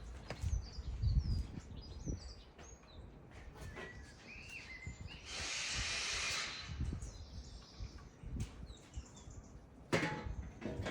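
Small birds chirping, with a few low knocks in the first second or so, a hiss lasting about a second and a half near the middle, and a sharp click near the end.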